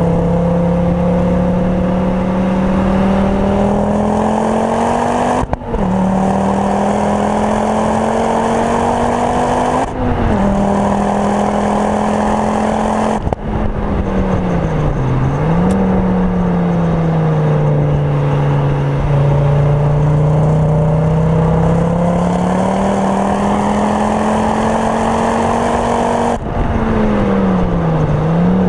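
Mk2 Ford Focus RS's turbocharged 2.5-litre five-cylinder, Mountune-tuned with a full Milltek exhaust, heard from inside the cabin at full lapping pace. The engine note climbs through the gears, breaking and restarting lower at each of three quick upshifts. It then drops and recovers under braking and downshifting, sags through a bend and climbs again, and falls with quick downshift jumps near the end.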